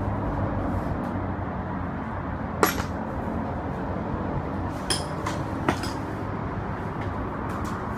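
Metal tools and parts clinking during the teardown of a Yamaha Passol scooter. One sharp clink with a short ring comes about two and a half seconds in, then three lighter clinks a couple of seconds later, over a steady low background rumble.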